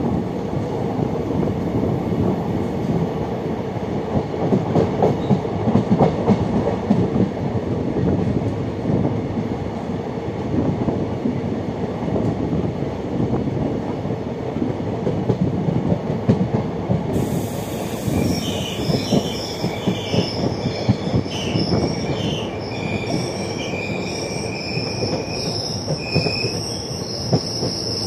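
Passenger train running along the track, heard from aboard: a steady rumble and rattle of wheels on rail. From about two-thirds of the way in, thin high-pitched whines come and go.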